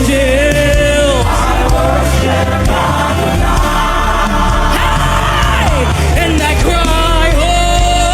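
Live gospel worship music: a band playing under singing voices, with a crowd singing along and some shouting.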